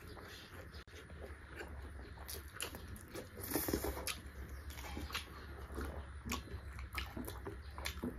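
Close-miked mouth sounds of people eating beef curry and rice: wet chewing and lip-smacking in short, irregular clicks.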